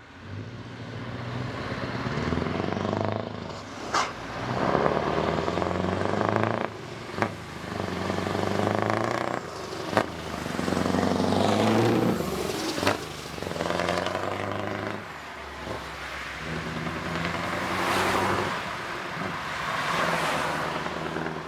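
Scania R 560 V8 truck engine pulling away and accelerating through the gears. Its pitch climbs and drops back several times, with a short sharp crack at four of the gear changes.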